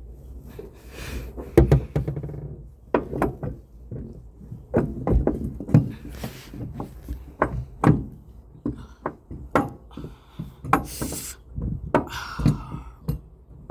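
Irregular knocks, clanks and thunks of tools and suspension parts being handled while a new rear shock absorber is fitted, with a short hiss about eleven seconds in.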